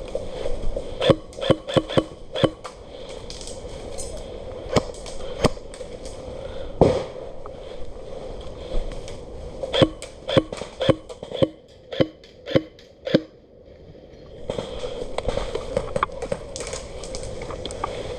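Airsoft guns firing single shots as sharp cracks, in irregular groups, including a run of about two shots a second near the middle.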